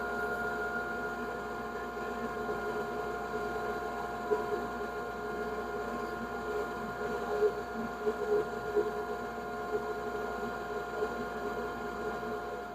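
KAKA Industrial WBS-14 14-inch bandsaw with a 1.5 hp motor, running steadily as it resaws an oak board, with the dust collector running alongside. It gives a constant hum with several steady whining tones.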